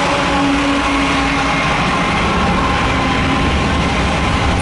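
Double-stack container freight train passing close by, a steady heavy rumble of engines, wheels and cars. The tones of its horn chord die away about a second and a half in.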